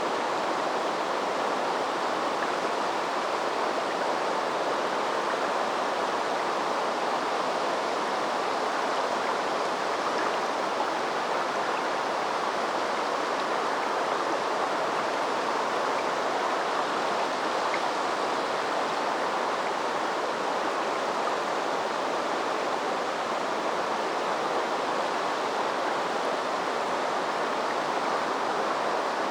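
Steady rushing of a river's flowing water, an even noise with no pauses or distinct events.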